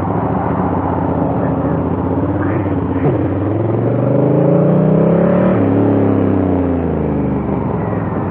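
Honda Africa Twin CRF1000L's 998 cc parallel-twin engine running under way. Its pitch climbs for about two and a half seconds as the bike accelerates, drops suddenly about five and a half seconds in at a gear change, then holds steady.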